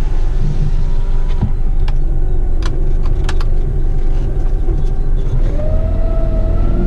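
Diesel engine of a heavy rigid rubbish truck running, with a few sharp clicks in the first half. About five seconds in, the engine pitch rises as the truck accelerates.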